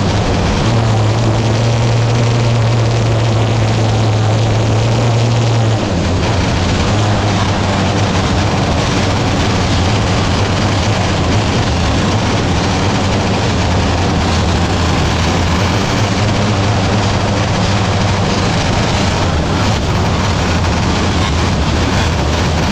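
Sprint car engines running hard on a dirt track, a loud continuous drone whose main pitch steps down slightly about six seconds in.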